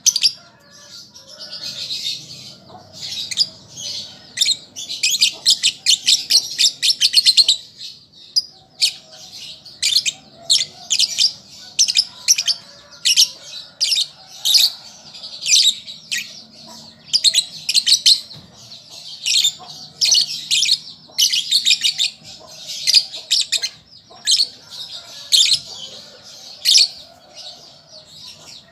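Young lovebird chattering: short bursts of rapid, high-pitched chirps about once a second, with a longer unbroken run of fast chirps about five seconds in.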